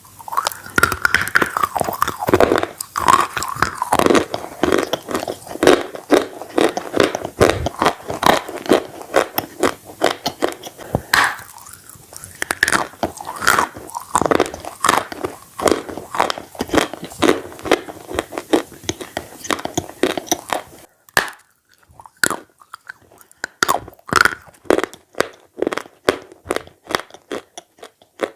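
Close-up mouth sounds of a person biting and chewing bread dipped in red clay paste: a dense, continuous run of chewing clicks that thins to separate clicks with short pauses in the last seven seconds or so.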